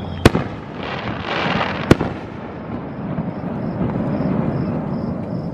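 Fireworks going off: two sharp bangs about a second and a half apart, with a wash of noise between them and a lower rumble that carries on afterwards.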